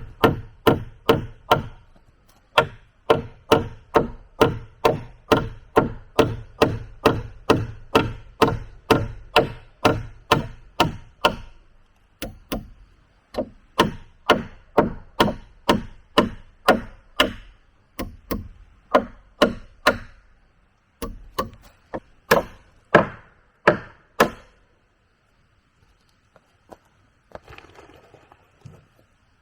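A tool striking wood in steady blows, about two to three a second, in runs broken by short pauses. It stops about 24 seconds in, and faint rustling and light knocks follow near the end.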